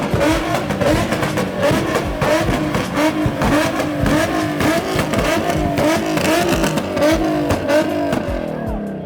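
Tuned car engine revving hard at a car meet, its pitch rising and falling about twice a second under heavy throttle, with a rough crackle over it; near the end the revs drop away.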